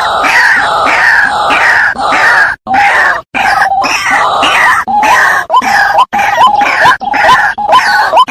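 Waterhen calling over and over, about three loud calls a second, with two brief cuts to silence a little before the middle.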